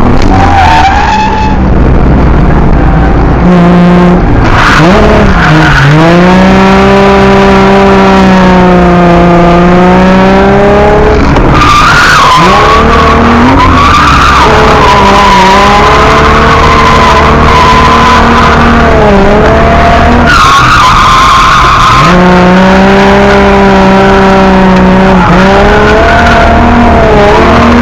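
Drift car engine held at high revs, its note rising and dipping in long sweeps as the throttle is worked, with tyres skidding. The recording is very loud throughout.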